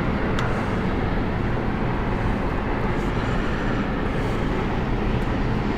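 Steady outdoor background noise, an even rushing haze with a low rumble and no distinct events.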